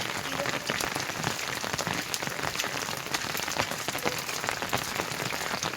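Heavy rain falling steadily, a dense hiss with many small drop impacts pattering on surfaces.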